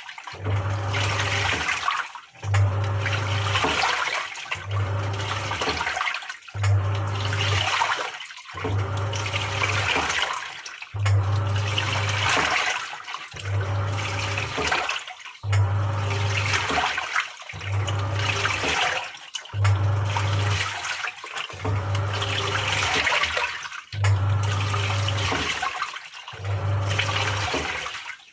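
Samsung 6.5 kg top-loading washing machine agitating the wash: the motor hums in strokes of about two seconds, with a short pause between each as the pulsator reverses, and the water sloshes and churns with every stroke.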